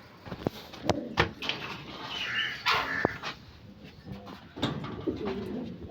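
Aseel chickens calling: a higher call about two seconds in, then low warbling clucks from a little before the end, with a few sharp knocks around one and three seconds in.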